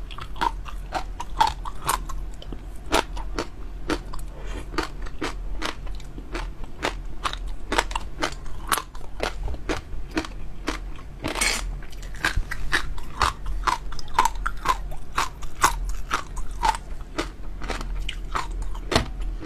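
Close-miked mouth sounds of someone eating crunchy food: a fast, uneven run of sharp crunching bites and chewing, several crunches a second.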